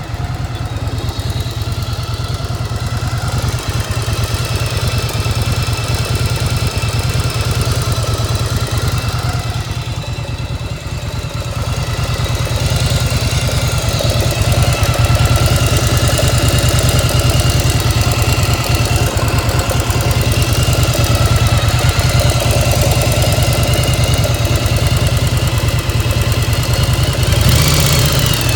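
1995 Yamaha XV1100 Virago's air-cooled V-twin running warm with the choke off, with a clanking noise from the engine that the owner is unsure is normal. It gets a little louder about halfway through.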